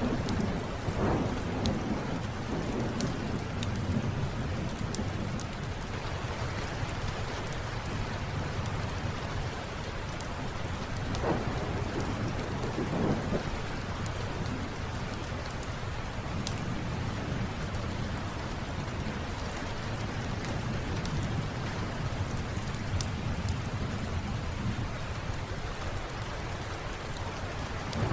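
Steady rain with thunder rumbling low, swelling a few times, and the scattered sharp pops of a crackling wood fire.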